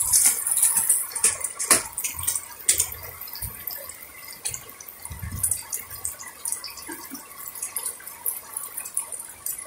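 Heavy rain falling on a concrete rooftop: a steady hiss, with scattered sharp taps and splashes.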